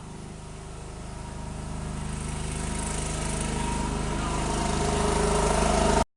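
A small engine running steadily, growing gradually louder throughout as it comes closer.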